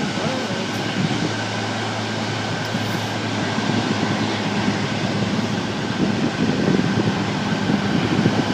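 Boeing 747's jet engines running while taxiing: a steady rumble with a thin, steady whine, growing a little louder near the end.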